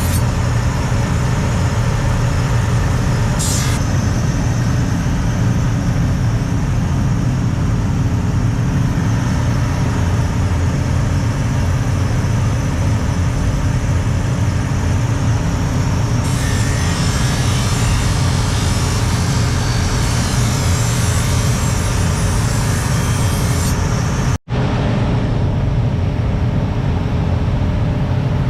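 A loud, steady machine noise with a deep running hum that breaks off for an instant a little after halfway through, then picks up again unchanged.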